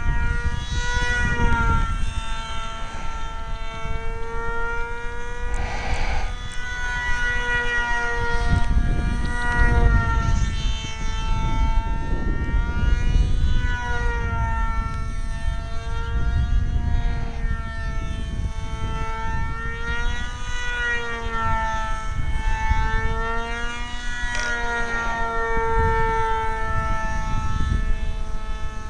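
Small electric RC plane's brushless motor (1800KV, 6x4 propeller) whining in flight. It is a steady tone whose pitch drifts gently up and down, over a low rumbling noise.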